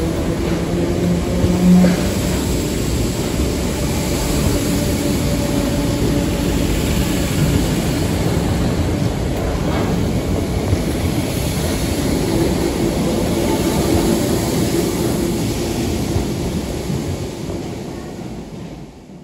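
Merseyrail electric multiple unit pulling out of an underground platform, with a steady rumble of wheels on rail and a faint motor hum echoing off the station walls. The sound fades near the end as the train draws away into the tunnel.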